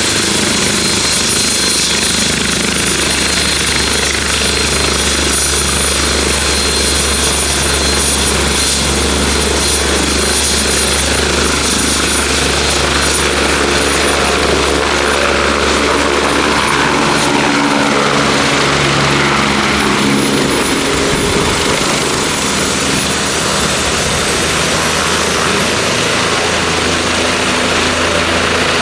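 Turbine helicopter running: a steady high turbine whine over the low beat of the main rotor. The low rotor sound changes about three quarters of the way through.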